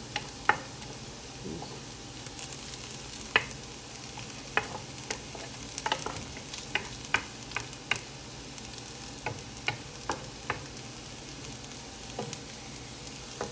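Potato chips and carrot sticks sizzling in oil in a nonstick frying pan, stirred with a wooden spatula that knocks and scrapes against the pan in irregular clicks.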